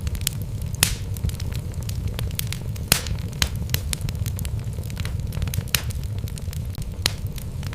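Wood fire burning in a fireplace: a steady low rumble of the flames with irregular sharp crackles and pops from the logs, a few louder snaps among them.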